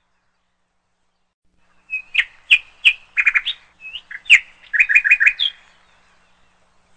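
A small bird chirping: a run of short, high chirps and quick repeated notes that starts about two seconds in and stops shortly after five seconds.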